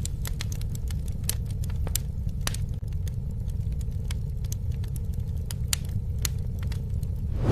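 Campfire burning: scattered sharp crackles and pops over a steady low rumble of flames, with a brief swell of rushing noise near the end.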